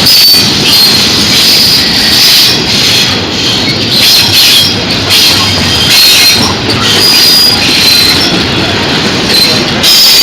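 Train cars rolling past loudly, a steady rumble of steel wheels on rail with high-pitched wheel squeal coming and going.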